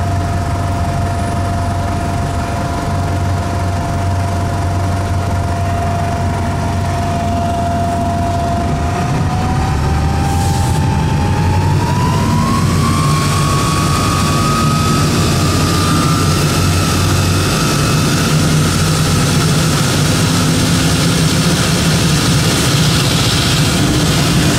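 Detroit Diesel Series 50 EGR engine of a 2002 Nova Bus RTS running under a low diesel drone, with a loud, clear whine over it. The whine holds one pitch, rises smoothly about nine seconds in, and then levels off higher. It is the odd engine-compartment noise that the owner puts down to a bad turbo.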